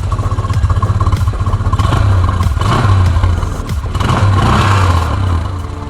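Small 110 cc single-cylinder moped engine running and revving, its sound rising and falling in several surges and easing off briefly near the end.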